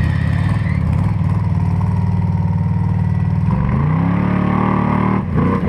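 Off-road buggy's engine running with a steady low throb, then revving up about three and a half seconds in as it pulls away, its pitch climbing.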